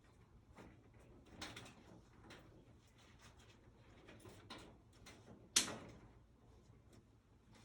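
Scattered light clicks and knocks, with one much louder sharp knock a little past halfway.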